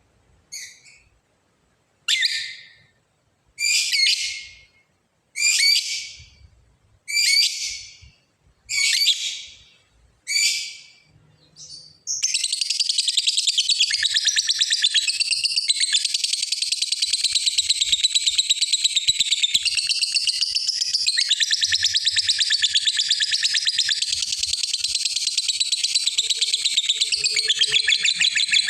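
Lovebird calling: seven sharp, separate high calls about a second and a half apart, then about twelve seconds in a long unbroken rapid chatter, the trilling 'ngekek' song.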